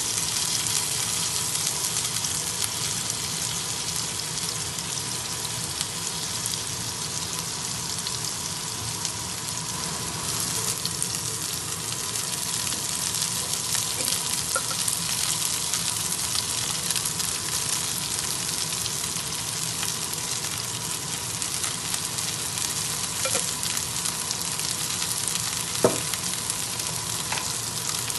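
Tofu cubes sizzling steadily as they fry in oil in a nonstick pan, turned now and then with a wooden spatula. A single sharp knock about two seconds before the end.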